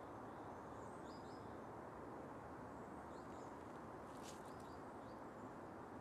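Outdoor nature ambience: a steady low rushing noise with faint bird chirps, short rising notes heard a few times, and one brief sharp burst a little after four seconds in.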